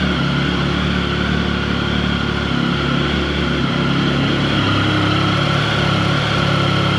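Triumph Tiger 1050's three-cylinder engine idling steadily while warming up from a cold start, not yet at operating temperature.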